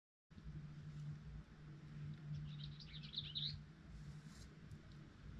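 Faint bird chirps, a quick twittering run about two to three seconds in, over a low steady hum in the background.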